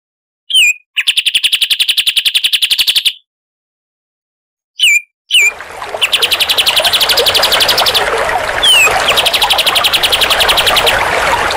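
Songbird song from a recording: a short down-slurred note, then a fast, even trill lasting about two seconds. After a pause come two short slurred notes, and from about halfway through the trills go on, broken by quick down-slurred notes, over a steady background hiss.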